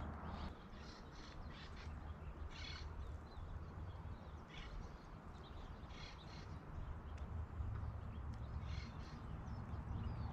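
A bird giving several short, harsh caw-like calls, spaced a second or more apart, faint over a low steady rumble.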